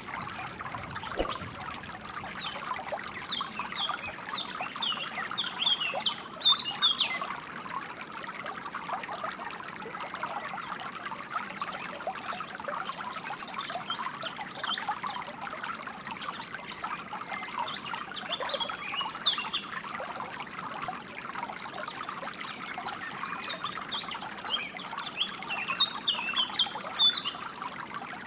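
Water trickling and babbling steadily, like a small stream. Birds chirp over it in flurries of quick high notes a few seconds in, around the middle, and again near the end.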